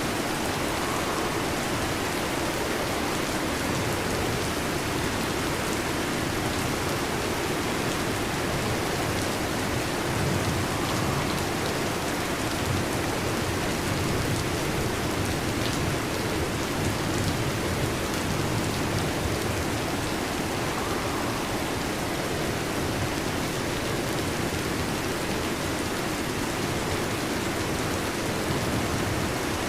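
Heavy rain falling steadily, with a soft low rumble that swells around the middle.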